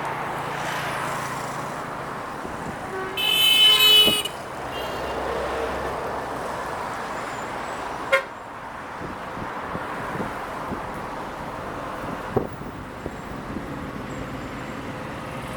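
Freight train rolling past with a steady rumble and scattered knocks. About three seconds in, a horn sounds one short toot, and a sharp clack comes a little past eight seconds.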